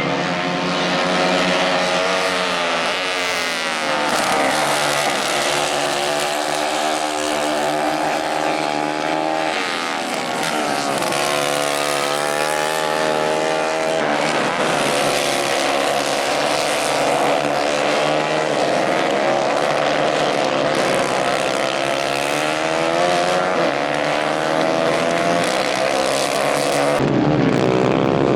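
Several 150 cc racing kart engines running together at race speed, their pitch rising and falling again and again as they rev up and back off; near the end one drops sharply in pitch.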